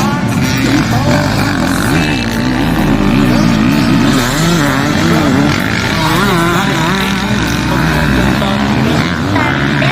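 Several motocross bikes racing, their engines revving up and down over one another.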